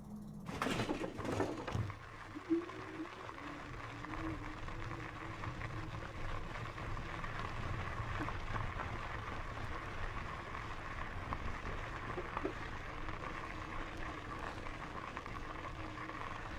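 Steady rolling and wind noise of an e-bike riding along a dirt trail, with a faint steady hum underneath. There is a brief louder rush of noise about a second in.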